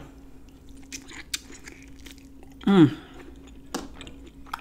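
Close-up chewing of grilled lamb chop meat bitten off the bone: scattered short wet clicks. About three seconds in there is a brief 'mmm' from her voice, falling in pitch.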